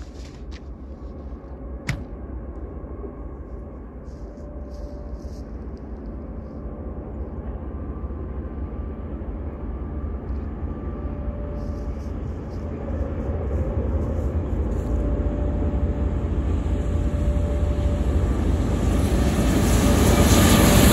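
Approaching diesel freight train, an EMD SD75I leading a GE ET44AC, its engine rumble and rail noise growing steadily louder as it closes in. A single short click about two seconds in.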